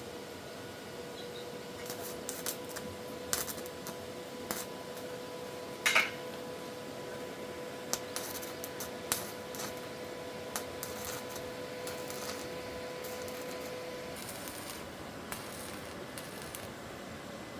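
Scattered light metallic clinks and taps as metal pieces and tools are handled, with one louder ringing clink about six seconds in. A steady faint hum runs underneath and stops near the end.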